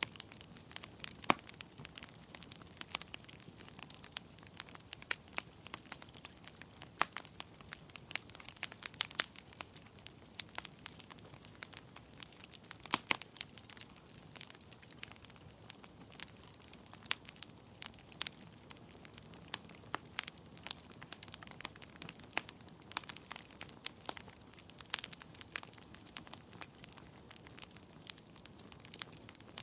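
Wood fire in a fireplace crackling: logs burning with a soft hiss and frequent irregular sharp pops and snaps, a few louder cracks among them.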